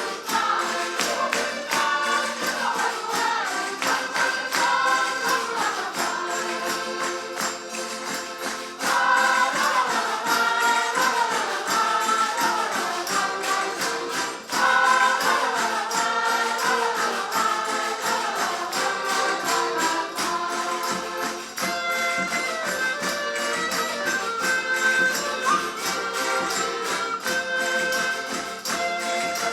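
Portuguese folk group singing in chorus to instrumental accompaniment, with a jingling percussion beat like a tambourine.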